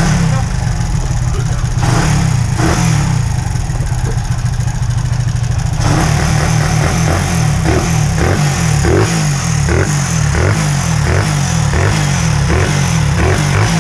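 Honda XRM 125's single-cylinder four-stroke engine, fitted with a 57 mm big-bore kit and racing cam, running loudly. About six seconds in, its note changes to a rhythmic lope with regular pulses. A mechanical clatter comes from the OKO carburettor's plunger and from the cam, which the builder takes as normal for this cam's profile.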